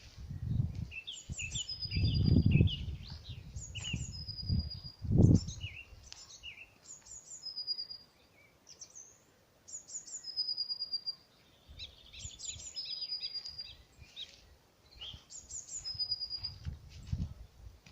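Songbirds singing, one bird repeating a short high phrase of quick notes ending in a steady whistle about every three seconds, with other birds chirping. Bursts of low rumbling come and go in the first six seconds and again near the end.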